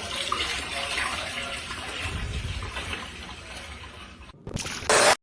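Rushing, gushing water as a steady noisy hiss. Near the end there is a brief break, then a louder burst that cuts off abruptly.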